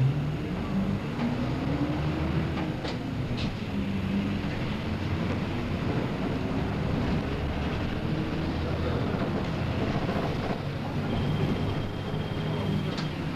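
Mitsubishi Fuso P-MP118N city bus's diesel engine pulling the bus along, heard from the front of the cabin, its note rising and falling as it accelerates and changes gear. A thin, steady high beep sounds for about two seconds near the end.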